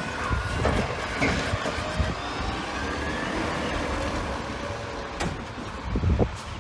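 Garbage truck's engine running steadily while its hydraulic lifting arm works a wheeled bin, with faint whining glides and several sharp knocks, one right at the start, another about five seconds in and another near the end.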